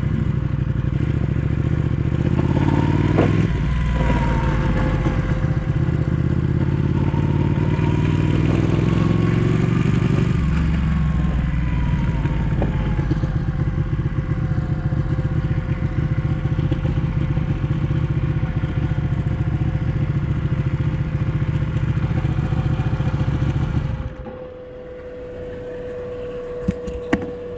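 Ducati 1199 S Panigale's Superquadro L-twin engine running under way, its pitch climbing and then dropping back twice. About 24 seconds in the engine sound falls away and turns much quieter.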